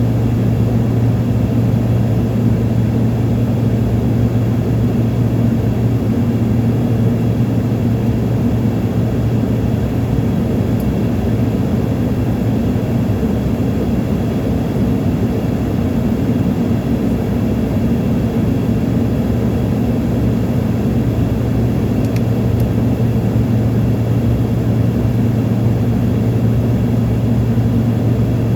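Airplane cabin noise in flight: the steady drone of the engines and rushing air, with a deep unchanging hum underneath.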